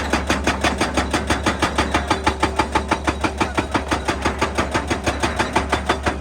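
Excavator-mounted hydraulic breaker hammering rock in a fast, even rhythm of about four to five blows a second, over the steady low hum of the excavator's diesel engine.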